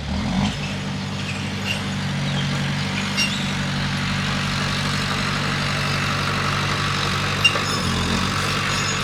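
Bulldozer's diesel engine running steadily. Its note rises just after the start and shifts briefly near eight seconds, with a few light metallic clanks over it.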